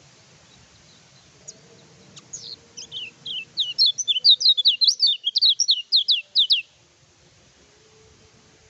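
A kecial kuning songbird singing: a few scattered chirps, then a fast run of high, downward-sweeping notes, about five a second, that stops abruptly about two seconds before the end.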